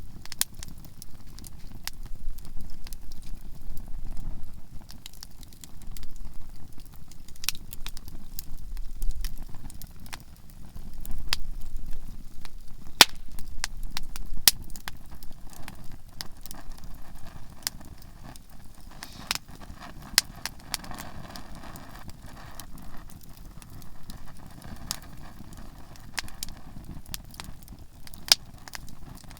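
Conifer firewood burning in a campfire, crackling and popping, with sharp pops scattered irregularly over a low steady rumble.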